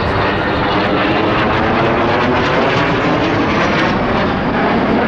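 Alenia Aermacchi M-346 Master jet trainer in display flight, its twin turbofan engines giving loud, steady jet noise. A faint whine slides down in pitch about halfway through.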